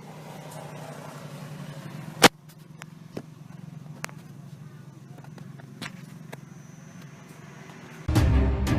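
Isuzu D-Max engine running steadily at idle, with a sharp click a little over two seconds in and a few lighter ticks after it. Music cuts in near the end.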